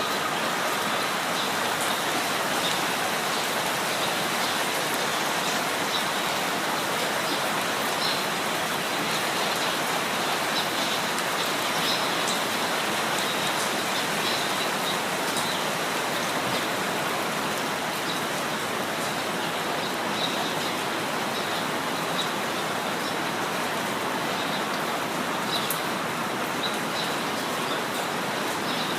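Steady rain falling, an even hiss with scattered drop ticks, with a few faint, high bird chirps.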